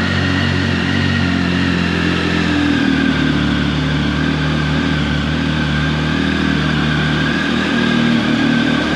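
Triumph Tiger 1050's three-cylinder engine running at a steady fast idle just after a cold start, its note shifting slightly about three seconds in.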